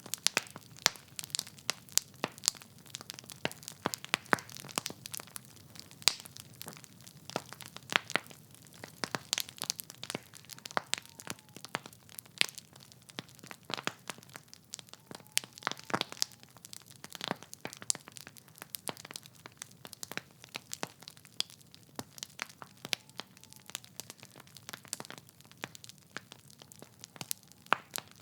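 Wood fire burning in a fireplace: logs crackling and popping in irregular sharp snaps over a low steady hiss of flame.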